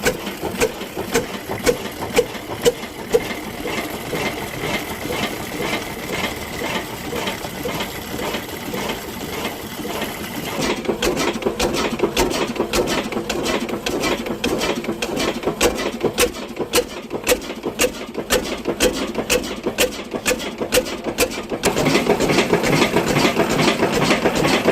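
Diesel engine running with a rhythmic knocking clatter after starting, getting louder near the end.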